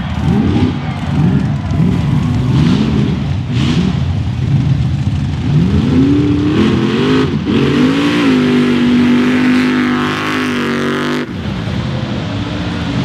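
Mega truck engine revving up and down over and over in the mud pit, then climbing to a held high rev. It breaks off suddenly about eleven seconds in, and a steadier, lower engine note follows.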